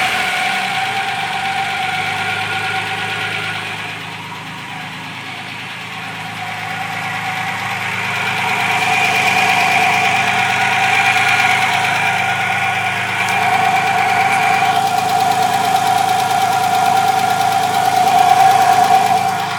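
BMW E21 engine idling with a steady high-pitched whine over it, the strange noise that the car makes when hot. The whine fades about four seconds in, then swells again and is strongest near the end.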